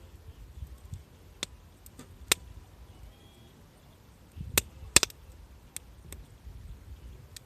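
Wood campfire crackling: scattered sharp pops, a few at a time, the loudest about two and five seconds in, over a low rumble.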